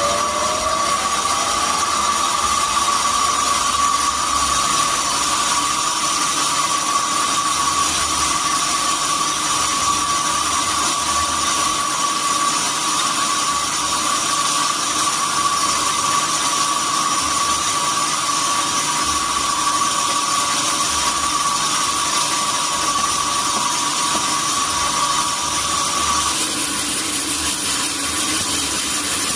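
Sawmill saw running and cutting through durian wood: a steady, loud, high whine over machine noise, with a tone rising in pitch at the start. About 26 s in, the whine stops and the sound shifts.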